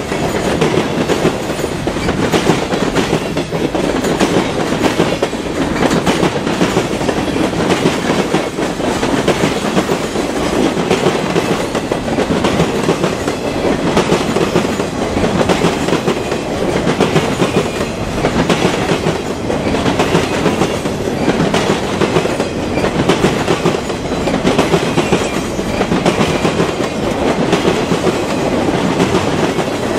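A train's cars rolling past close by: a steady, loud rumble of wheels on rail with clacking over the rail joints.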